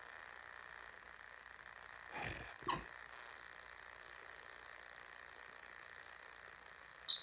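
Faint steady room hiss, with two brief soft sounds about two and a half seconds in and a sharp knock or click near the end.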